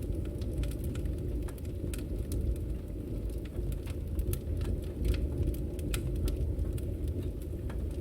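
Campfire burning: a steady low rumble of flames with frequent sharp crackles and pops from the wood, scattered irregularly.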